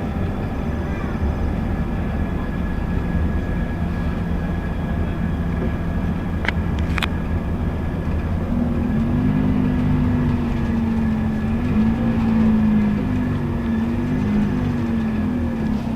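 Scania K280UB city bus's diesel engine and ZF automatic gearbox heard from inside the bus while driving. About halfway through, the engine note climbs and then rises and dips several times as the bus pulls away and changes gear. Two short sharp clicks come a little before that.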